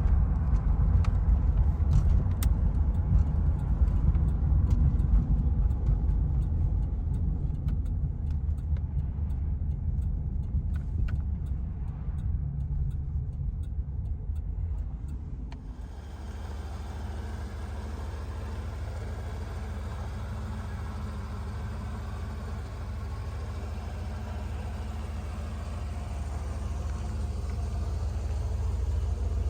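1986 Pontiac Firebird Trans Am's V8 running with a steady low rumble. A little past halfway the sound changes abruptly, becoming quieter and smoother.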